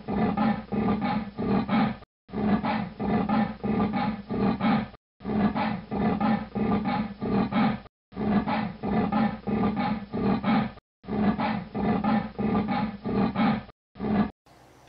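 Cheetah call: a rhythmic series of throaty pulses, about two a second, in a clip of roughly three seconds looped end to end five times, cutting off abruptly near the end.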